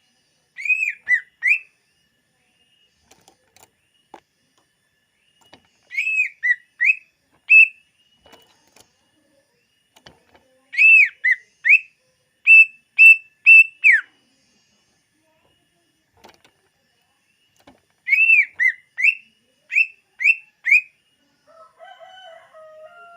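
Cucak ijo (green leafbird) singing: four phrases of loud, clear whistled notes, each a quick run of short arching notes, separated by pauses of a few seconds. A fainter, lower warble follows near the end.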